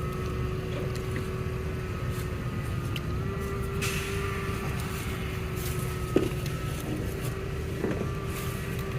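Vehicle engine idling steadily, a low rumble with a steady whine that steps up slightly in pitch about three seconds in. A short sharp knock about six seconds in.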